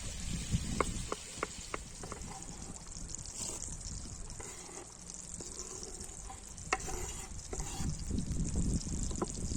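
Food frying and sizzling in a pan, a steady hiss, with a run of sharp clicks about a second in and a few more later, as of a utensil against the pan.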